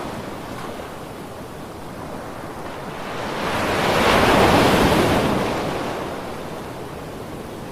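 Sea waves breaking and washing on a shore: a soft rush of surf that swells to a peak in the middle and ebbs away again.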